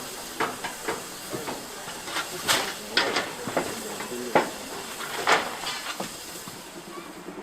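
C12 66 steam tank locomotive standing with steam hissing steadily, broken by irregular sharp knocks and clanks.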